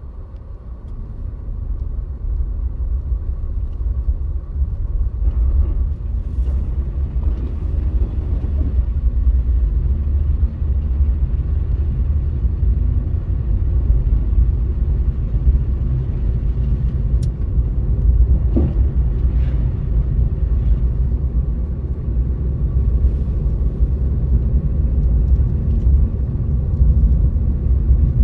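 Low, steady rumble of a car driving: road and engine noise that grows louder over the first couple of seconds, then holds steady.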